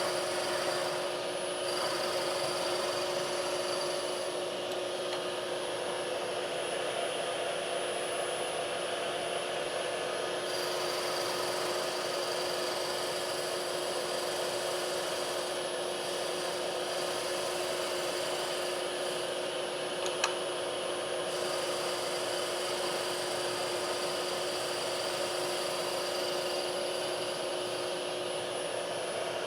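Electric shop machine running steadily with a constant hum, and a single sharp click about twenty seconds in.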